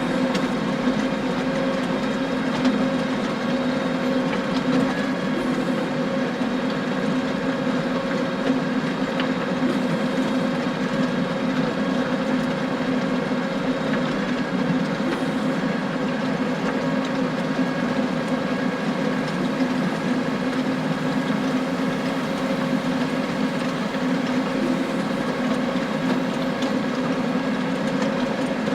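John Deere tractor running steadily under load while driving a power harrow, with a constant drone and a dense clatter of stones knocking against the rotating tines.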